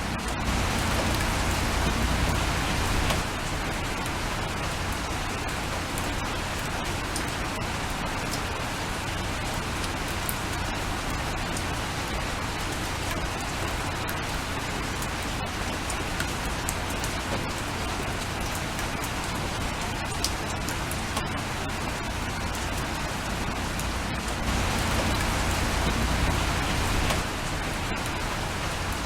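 Steady rain falling, with scattered individual drop ticks. It grows louder and heavier for a few seconds just after the start and again near the end.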